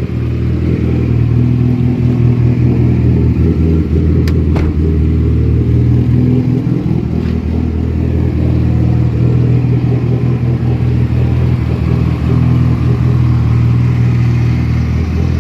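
2008 Mitsubishi Lancer Evolution X rally car's turbocharged 4B11 four-cylinder engine idling steadily, with one sharp click about four seconds in.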